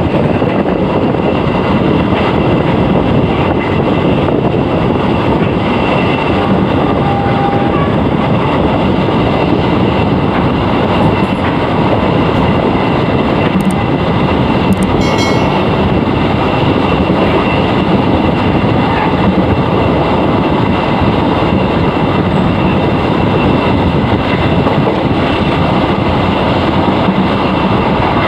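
Indonesian long-distance passenger train running at speed, heard from the open door of a moving coach: a steady, loud rush of wheel and rail noise.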